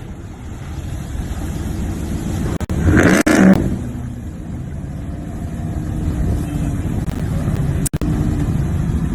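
A truck engine running with a low rumble, surging louder about three seconds in as it revs.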